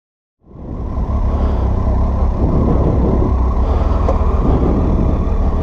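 Triumph Tiger 800 XRT inline three-cylinder motorcycle on the move, picked up by an on-bike or helmet microphone as a steady, muffled low rumble of engine and wind buffeting. It cuts in suddenly about half a second in.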